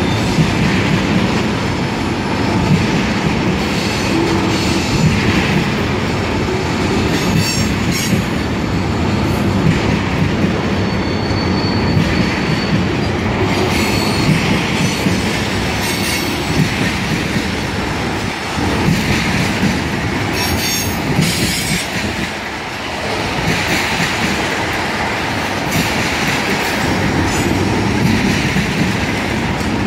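Freight train of tank cars rolling steadily past at a grade crossing: a continuous rumble and clatter of wheels over the rails, with brief high-pitched squeals from the wheels every few seconds.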